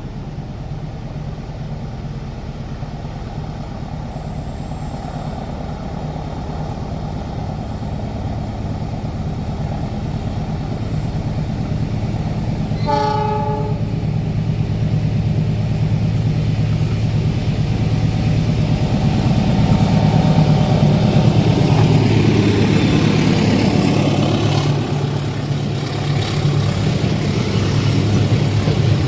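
Diesel train locomotive approaching with its engine running, growing louder as it nears. It gives one short horn blast about halfway through. Engine and wheel noise are loudest in the latter part, where the pitch slides downward as the train passes.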